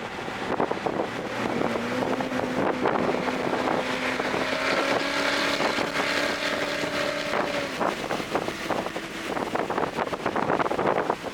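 Toyota GR Corolla's turbocharged three-cylinder engine, fitted with an aftermarket intake, pulling hard under acceleration. Its note climbs steadily for about six seconds, then drops off near the end as the driver lifts or shifts, over steady wind and road noise.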